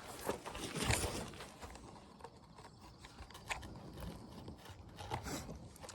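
Scattered light clicks and scrapes of hands and tools working on a front brake caliper assembly, loudest about a second in.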